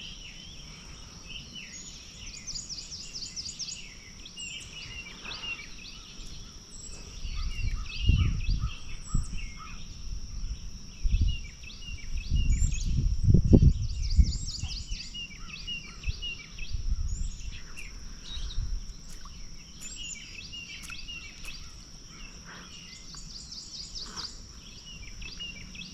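Riverside birds calling and singing in repeated short chirps and fast trills over a steady high-pitched insect drone. Low rumbles swell up about eight and thirteen seconds in.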